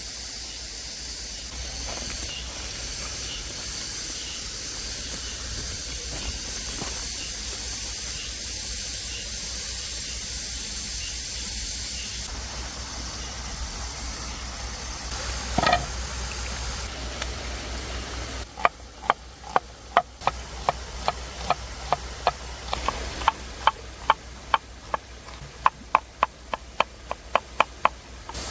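Steady hiss, then about two-thirds of the way in, a run of sharp knocks at roughly two a second, like a knife chopping on a cutting board.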